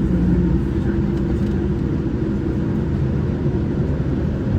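Boeing 787-9 Dreamliner heard from inside the cabin during takeoff: a loud, steady low rumble of the jet engines at takeoff thrust.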